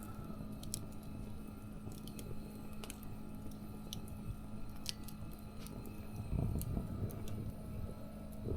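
Wood fire crackling: scattered small pops and snaps at irregular intervals over a low steady hum.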